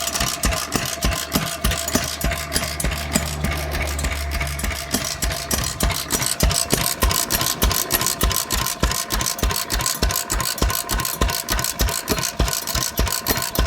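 Vintage Sundial engine running steadily, with sharp, even exhaust beats about three a second. A low hum sounds alongside it for a few seconds near the start.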